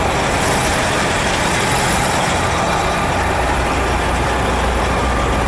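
Big truck's diesel engine running close by, a steady low rumble that grows stronger in the second half.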